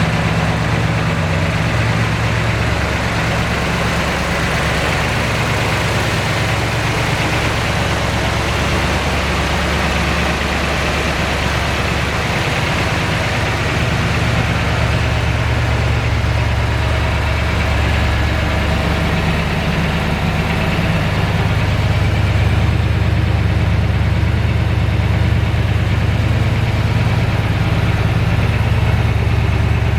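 1970 Chevelle SS's 454 LS6 V8 idling steadily, a little louder from about two-thirds of the way through.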